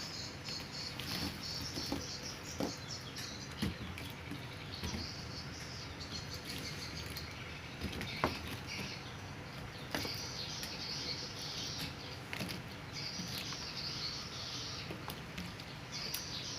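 Bursts of high-pitched chirping recurring every few seconds, with scattered light taps and clicks between them.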